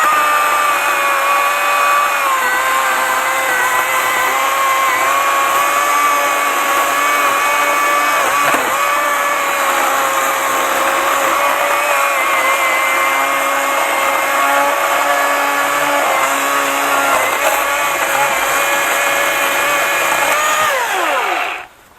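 Milwaukee M18 FUEL battery chainsaw cutting through a stump: its brushless motor and chain run with a steady whine that dips slightly in pitch now and then. Near the end the trigger is released and the whine winds down with falling pitch and stops.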